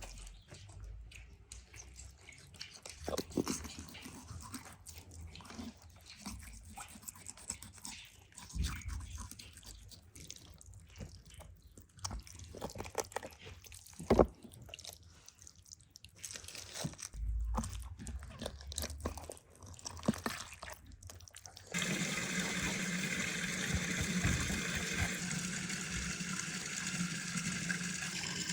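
Scattered quiet clicks and knocks of handling, with one sharper knock midway; then, about 22 s in, a steady rush of running water starts suddenly and keeps on.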